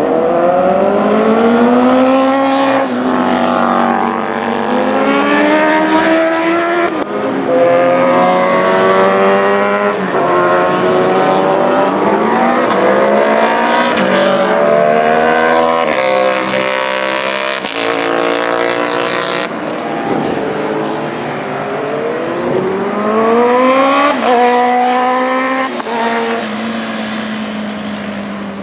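Several sport motorcycle engines revving hard and accelerating past, their pitch climbing through the gears and dropping away, overlapping one another, over a steady low engine note.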